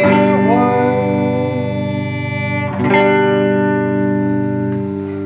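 Live band holding the closing chords of a song, led by guitar, with one chord change about three seconds in and the sound dying away near the end.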